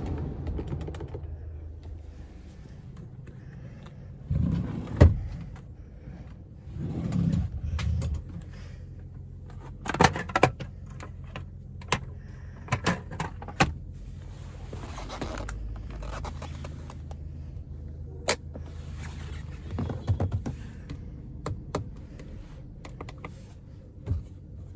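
Toyota Innova Crysta's 2TR-FE four-cylinder petrol engine running at a steady idle, with scattered clicks and knocks over it and a few louder thuds.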